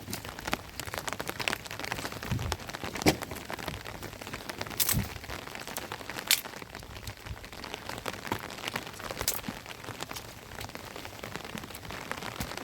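Steady rain falling, with irregular sharp taps of drops and knocks on nearby surfaces, a few louder ones scattered through.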